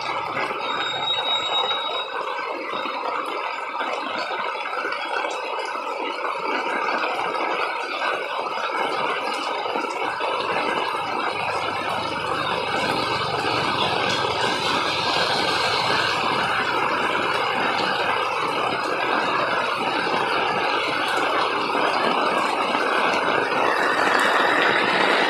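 Heavy rain falling on a paved street, a steady hiss that slowly grows louder towards the end as the downpour strengthens.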